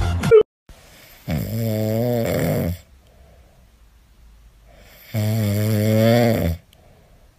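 A sleeping dog snoring: two long, wavering snores about four seconds apart.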